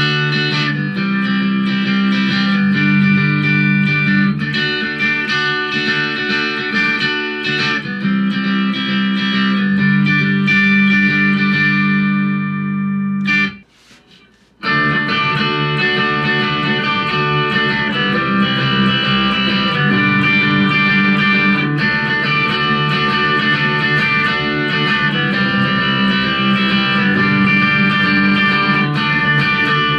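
Electric guitar, a Squier, played through M-Vave MK-300 multi-effects presets with no other processing: ringing chords that drop out for about a second near the middle, then start again.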